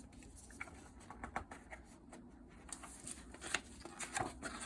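Faint rustling and light taps of handling noise in a small room, a little busier near the end.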